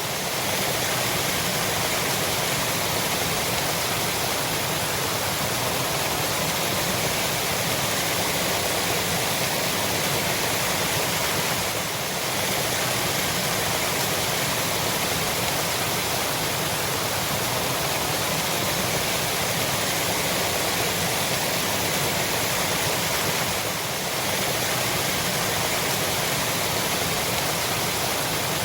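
Waterfall: water falling and rushing in a steady, unbroken roar of white-noise-like hiss.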